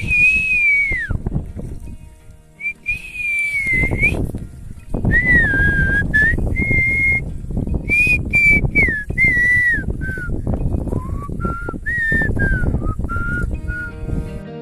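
A person whistling a slow melody in short phrases, the notes gliding up and down, over a rough low rumbling noise.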